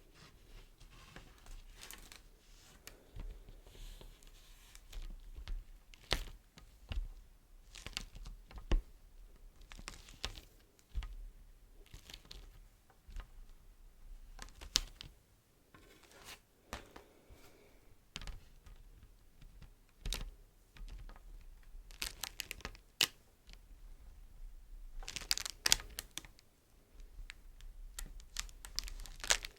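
Beeswax wrap crinkled and handled close to the microphone: irregular crackles and sticky crinkling, with two denser flurries of crinkling near the end.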